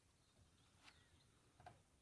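Near silence: faint riverside ambience, with two brief faint sounds about three quarters of a second apart.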